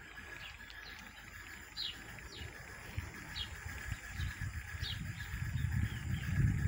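Birds chirping in short falling notes, about one every half second, with a faint steady high tone beneath. A low rumble builds from about four seconds in and becomes the loudest sound near the end.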